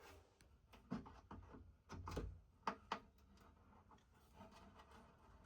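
Near silence broken by a few faint, scattered knocks and clicks of hands and tools handling the wooden chest, about five in all over the first three seconds.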